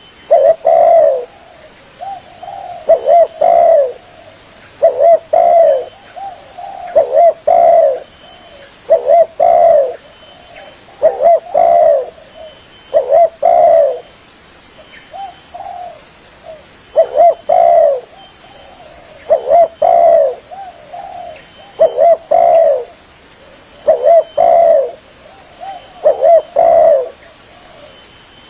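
Spotted dove cooing: a short phrase of a few coo notes, repeated over and over about every two seconds, used as a lure call for trapping doves.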